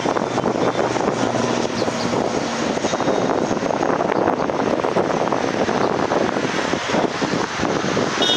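Jet airliner engines running, a steady dense rush of noise.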